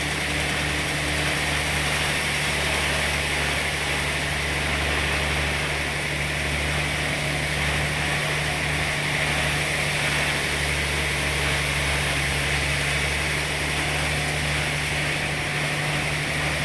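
Sawmill machinery running steadily, with a constant low hum and a hiss over it.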